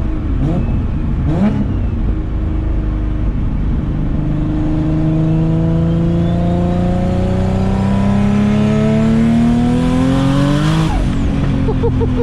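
Turbocharged 2004 Infiniti G35 coupe's V6 pulling hard under acceleration. The engine note climbs steadily for about nine seconds, then drops suddenly near the end at an upshift. The car runs with an exhaust leak ahead of the turbo, which the owner says is bleeding off boost.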